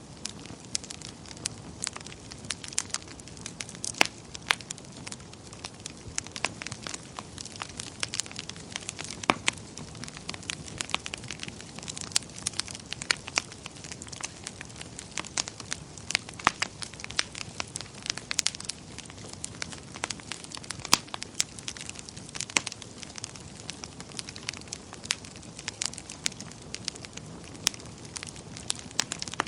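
Wood fire crackling in a fireplace: frequent irregular sharp pops and snaps of varying loudness over a low steady hiss of flame.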